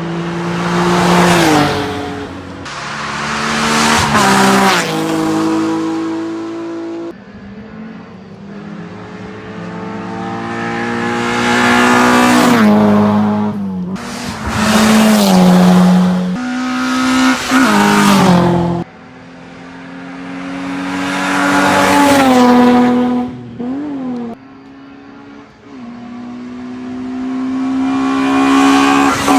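Hillclimb race cars passing one after another at full throttle, engines revving up and dropping in pitch at each gear change, in several loud passes that swell and fade.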